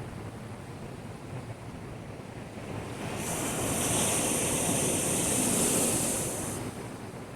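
Heavy typhoon swell surging against a breakwater: steady surf noise that builds about three seconds in into one large wave breaking with a hissing rush of spray, then falls back near the end.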